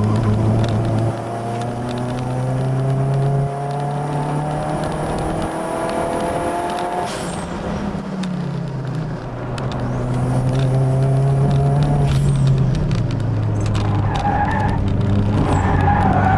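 Toyota Starlet Glanza engine heard from inside the cabin under hard acceleration, its pitch climbing for several seconds and then dropping back, twice, over a steady low road drone.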